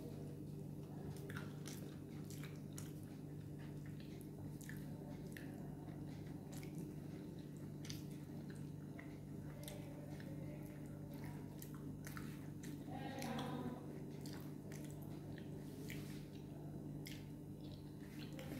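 Close-up chewing and mouth sounds of a person eating rice, dal and fried potato-poppy-seed fritters by hand: small irregular clicks and wet squishes, over a steady low hum.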